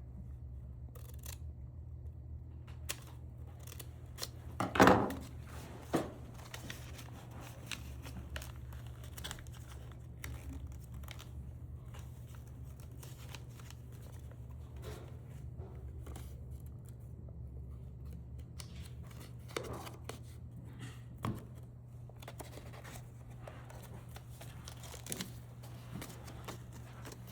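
Scattered clicks and rustling handling noises over a steady low hum, with one louder knock about five seconds in.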